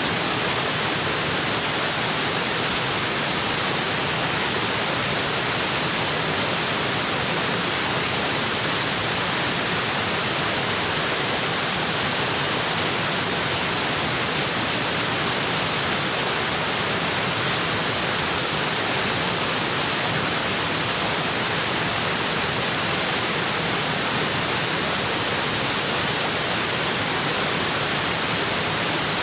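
Waterfall in a tropical forest, water splashing over rocks with a steady, even rush.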